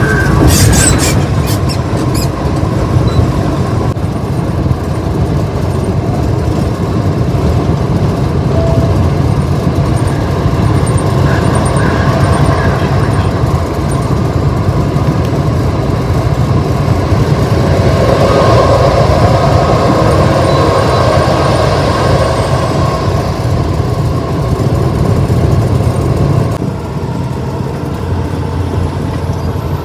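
Steady road noise of a car driving on the highway, a continuous rumble that eases a little near the end.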